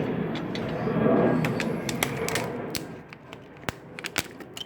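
Handling of the freshly fabricated steel milling disc: a rustling, shuffling stretch in the first couple of seconds, then scattered sharp clicks and light knocks.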